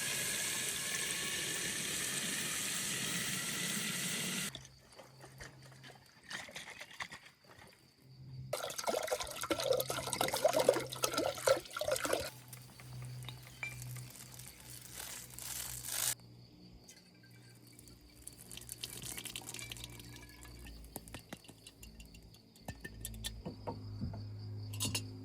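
Liquid pouring into a glass bottle, with a rising tone as the bottle fills; it stops suddenly after about four seconds. A few seconds later comes a second, choppier stretch of pouring and splashing, then only scattered clicks.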